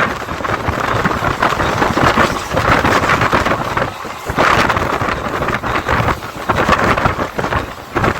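Mumbai suburban electric local train running at speed: a continuous rumble and clatter from the wheels on the track, mixed with wind rushing over the microphone. The noise dips briefly about four seconds in.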